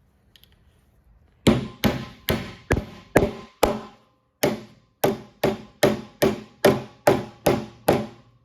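Hammer blows on a thick copper cap over the top of a wooden fence post: about fifteen steady strikes, each with a short ring, in two runs with a brief pause between them.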